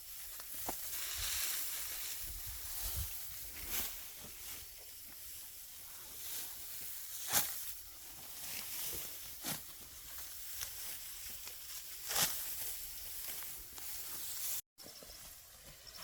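Dry rice plants rustling and swishing as they are harvested by hand, with about five sharp swishes or snaps at irregular intervals of two to four seconds.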